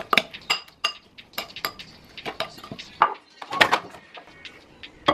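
Metal spoon clinking and scraping against a ceramic bowl while stirring, in a string of quick, sharp taps. About three seconds in comes a louder cluster of knocks and clatter.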